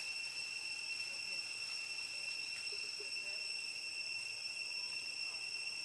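Steady, unbroken high-pitched insect drone with no change in level.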